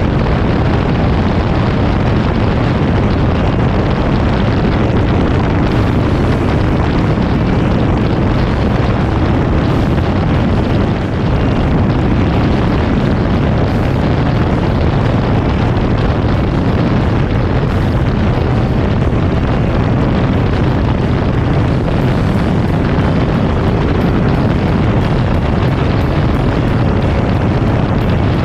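Motorcycle riding at road speed: a steady, loud rush of engine, exhaust and wind noise with no change in pitch.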